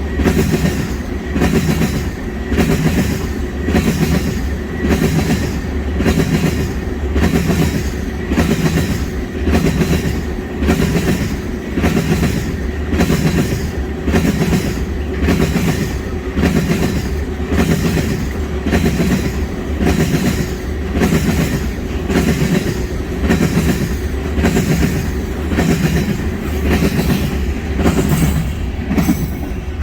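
Wagons of a long petroleum tanker goods train rolling past, wheels clicking over the rail joints in a steady beat of about one a second over a continuous rumble.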